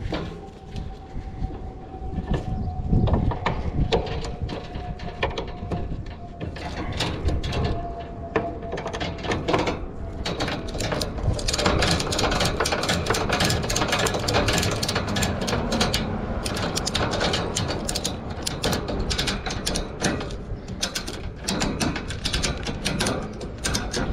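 Hard objects clicking and rattling as they are handled, the clatter growing dense and continuous from about halfway through. A faint steady whine sinks slightly in pitch over the first few seconds.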